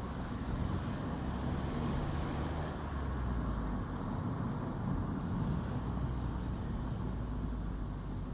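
A car driving along the road: a steady low rumble of engine and tyres.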